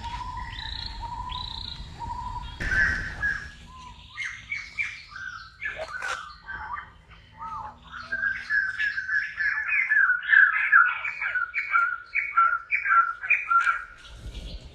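Birds calling: a short call repeated evenly for the first two seconds or so, then a fast run of chirps from about four seconds in that grows denser towards the end.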